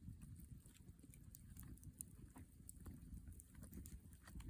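Near silence with faint scattered small clicks over a low background rumble.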